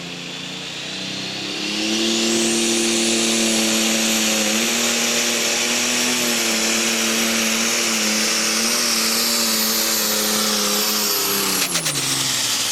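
Diesel pulling tractor of the Super Stock/Pro Stock class making its pull: the engine winds up over the first two seconds, holds a steady, very high rev with a high whistle above it, and drops sharply in pitch near the end as the run finishes.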